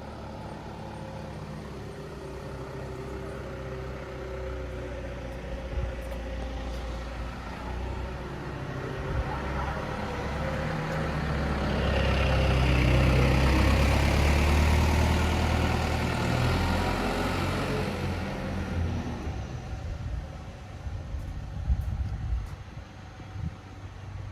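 Mini dump truck's engine running, rising to a louder, fuller sound in the middle and then settling back down, with a few short knocks near the end.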